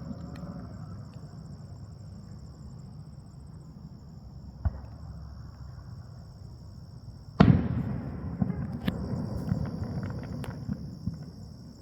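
Aerial fireworks going off: a single sharp bang a little before halfway, then a much louder shell burst about two-thirds through, followed by several seconds of crackling. Crickets trill steadily underneath.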